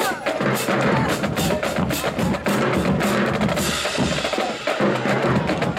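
Marching band drumline playing a cadence, with snare and bass drums struck in quick, steady succession.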